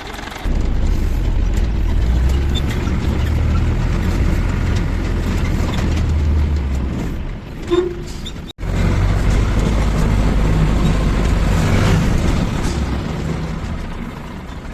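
Diesel engine of a JCB 3DX backhoe loader running steadily under load, a deep continuous rumble. It cuts out abruptly about halfway through and resumes at once.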